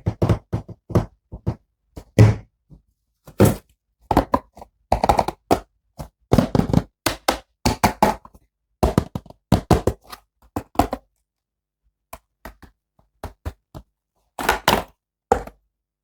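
Hands handling plastic toy packaging and action figures: an irregular run of knocks, taps and short rustles, sparser toward the end.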